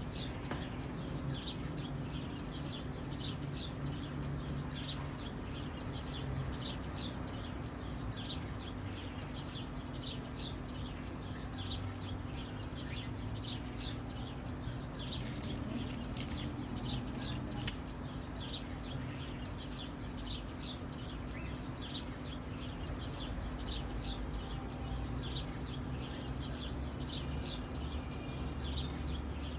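A bird chirping over and over, a short high call roughly once a second, over a steady low hum.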